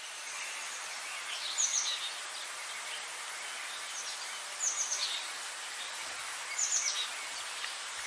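Outdoor nature ambience: a steady hiss with a songbird repeating a short, falling chirped phrase about every two seconds.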